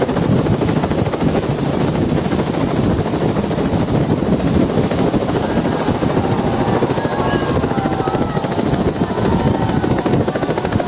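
Helicopter rotor and engine running steadily, a loud continuous fluttering din.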